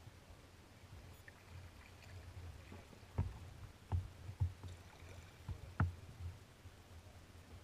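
A kayak being paddled on open water: a low steady rumble of water against the hull, with about five sharp knocks or splashes from the paddle between three and six seconds in.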